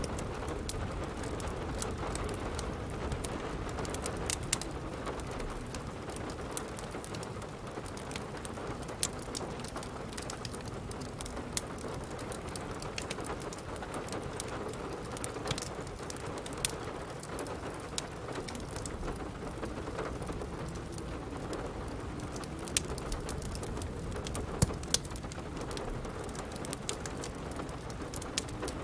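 Steady rain falling, with a crackling wood fire: sharp pops and snaps scattered irregularly over the hiss of the rain.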